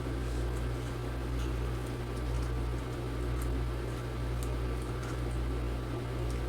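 A steady low hum with a few faint light ticks.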